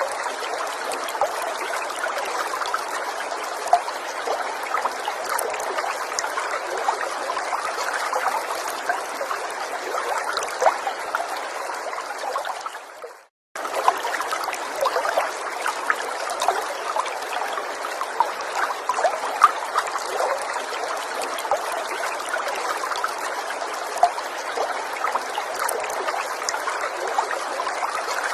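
Gentle forest stream trickling and babbling over stones in a steady flow. About halfway through, the water sound fades out to a moment of silence and then comes back in abruptly.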